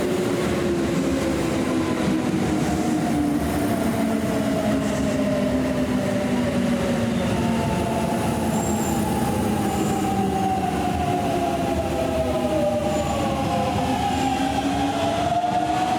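Kintetsu electric commuter train at the platform: its motor whine sounds as several tones that glide slowly down for most of the time and rise again near the end, over a steady running rumble. The falling whine fits a train slowing as it pulls in.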